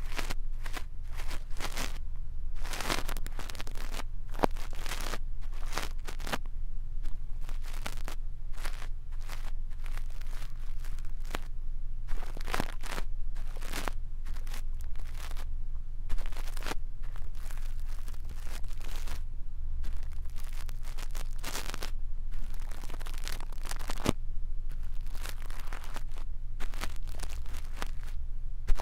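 A brush stroking and scratching on a microphone for ASMR ear cleaning: a dense, irregular run of short scratchy rustles, one after another, over a steady low hum.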